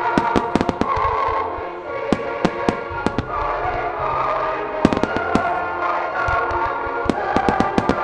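Fireworks shells bursting in rapid clusters of sharp bangs and crackles, over choral-orchestral music played on loudspeakers.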